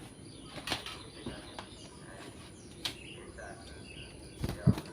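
Sooty-headed bulbul giving faint, short chirping calls. There are a few sharp clicks, and a louder thump about four and a half seconds in.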